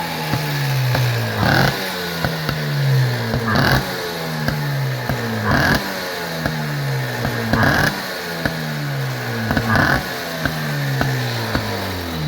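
1953 Motobi twin-cylinder two-stroke motorcycle engine being revved, a throttle blip about every two seconds with the revs falling back each time.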